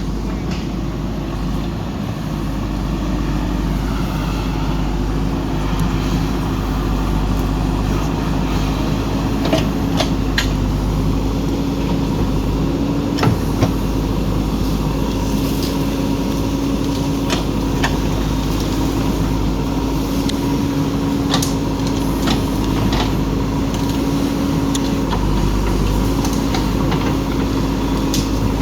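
Backhoe loader's diesel engine running steadily with a held hum, and a few sharp knocks scattered through.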